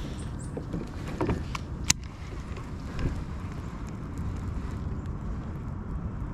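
Wind rumbling on the microphone, with a few light clicks and taps about a second in and one sharp click just before two seconds.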